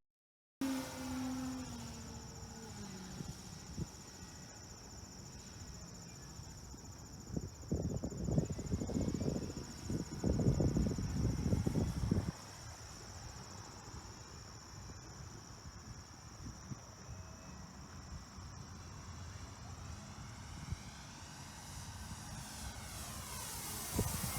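Electric RC plane with a brushless motor flying around, its pitch falling as it passes away near the start and sweeping back up as it comes in again near the end. A steady high insect buzz runs underneath, with gusty rumbling noise for a few seconds in the middle.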